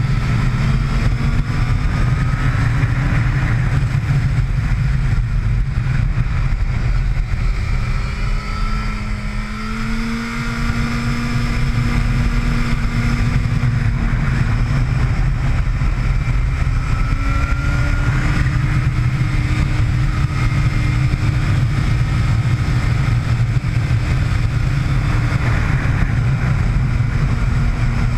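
Motorcycle engine heard on board at track speed, its pitch rising and falling as the rider accelerates and backs off through the corners, over a heavy, constant rumble of wind.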